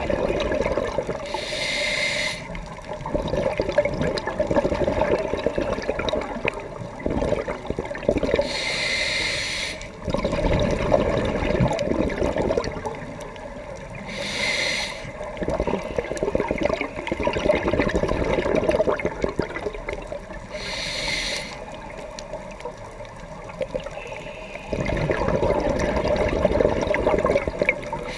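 Scuba diver breathing through a regulator, heard underwater: a short hiss from the demand valve at each inhalation, about every six seconds, with the bubbling of exhaled air in between.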